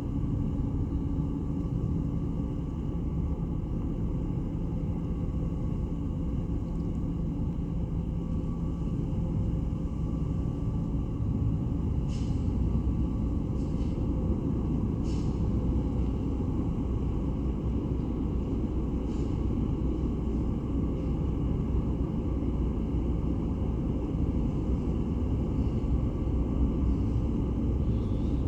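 Ferry Taiko's diesel engines running, a steady low rumble with a faint hum over it as the ship comes into port. A few faint clicks near the middle.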